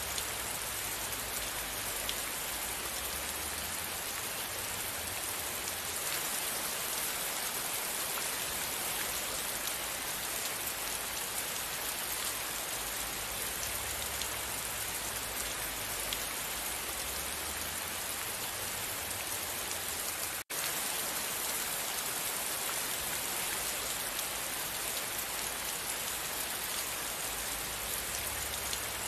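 Steady rain falling, an even hiss of many drops. The sound drops out for an instant about two-thirds of the way through.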